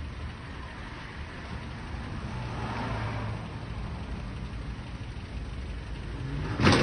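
Truck engine running and revving, swelling in the middle, then a loud crash near the end as the truck rams into the storefront.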